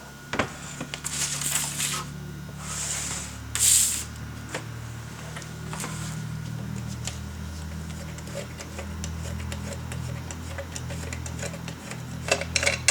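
Handling noise: scattered clicks and light knocks with a few short hissing rustles in the first four seconds, over a steady low hum.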